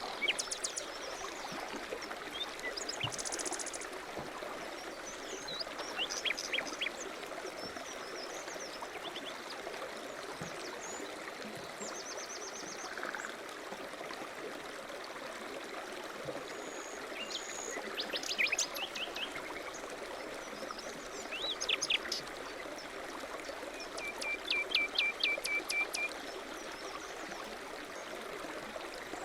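Small songbirds chirping in short, scattered phrases, with a rapid trill of repeated notes near the end, over a steady rushing noise.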